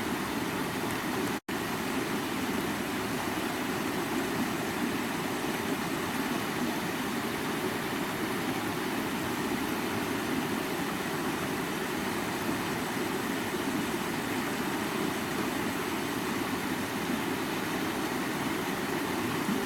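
Stream water running and babbling steadily, a full, even rush strongest in the low-middle range, broken by a momentary gap of silence about a second and a half in.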